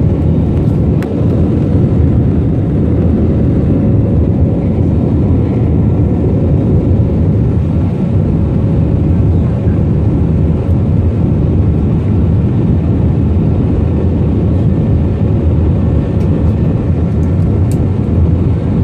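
Steady in-flight cabin noise of a jet airliner: a constant roar of engines and airflow, with a few faint steady hum tones above it.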